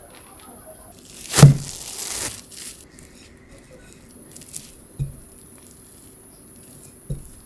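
Food-preparation handling sounds: a sharp knock about a second in, followed by a short rustle, then two softer thumps later.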